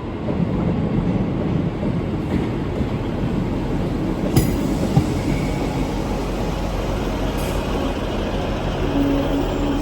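A train moving through the station: a steady loud rumble of engine and wheels, with two sharp clicks between four and five seconds in.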